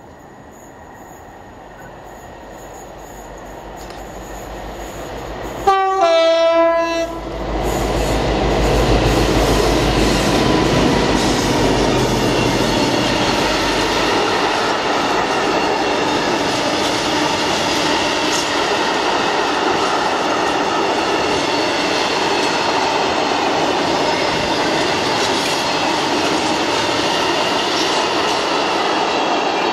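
A Class 60 diesel-electric freight locomotive sounds its two-tone horn about six seconds in, a short high note then a lower one, and its engine rumbles as it passes. After that a long train of covered freight wagons rolls by with steady wheel noise and clickety-clack.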